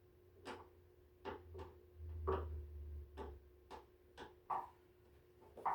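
Scattered light clicks and taps of a screwdriver working screws out of the heater's plastic housing, about nine at uneven intervals, with a brief low rumble of handling about two seconds in.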